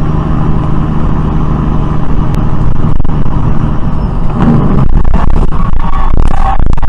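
Car engine and road noise, a loud steady hum that gets rougher, with scattered knocks and rattles over the last couple of seconds.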